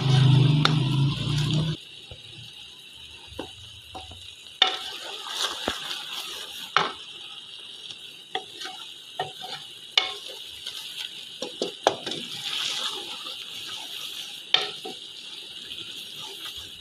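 Boiled black chickpeas frying in ghee in a steel pot, sizzling steadily, while a spoon scrapes and knocks against the pot in irregular clicks as they are stirred. A loud low hum fills the first couple of seconds, then stops abruptly.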